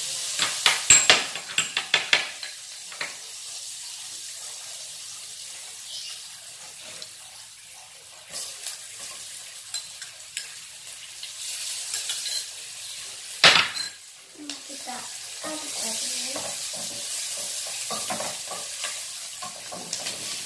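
Chopped onion sizzling in melted butter in a frying pan on a gas stove, with a steady high hiss. A quick run of sharp taps comes in the first two seconds as the onion goes in, a single loud knock about two-thirds through, and a spatula stirring in the pan near the end.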